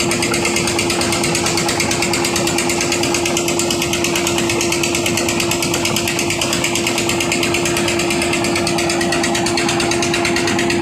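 Heavy diesel construction machinery running steadily under work, a fast, even rattle over a constant hum.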